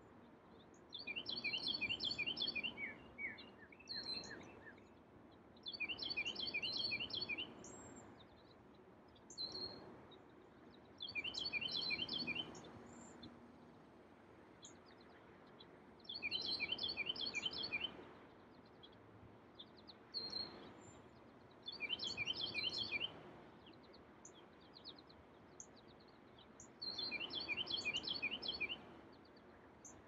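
A songbird singing the same phrase over and over, about six times: each song is a fast run of high, repeated notes lasting about two seconds, about every five seconds, with short single chip notes between the songs.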